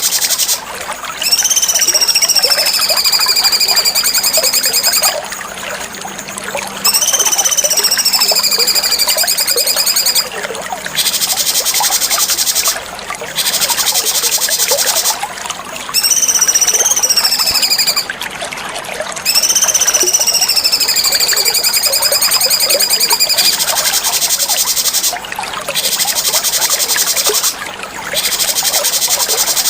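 Cucak cungkok singing repeated phrases: long slurred whistles that sweep up and then fall and level off, set inside a dense, high, buzzy trill, with short breaks between phrases.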